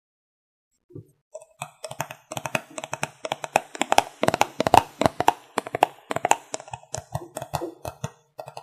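Quick, irregular tapping and clicking of fingers and nails on makeup containers and cases. It starts about a second in and is thickest around the middle.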